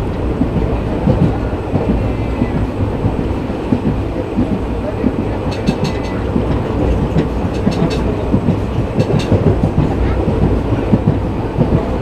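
Indian express passenger train running along the track, heard from aboard: a steady low rumble of the coach with wheels clattering over the rails. Clusters of sharp metallic ticks come in the middle.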